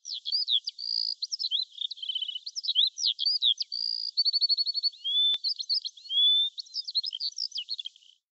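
A songbird singing a long, varied song of quick whistles, trills and rapid runs of repeated notes, thin-sounding with no low end. A single faint click about five seconds in.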